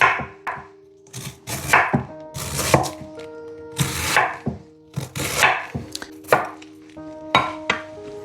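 Kitchen knife chopping red cabbage on a chopping board, an uneven run of cutting strokes about two a second.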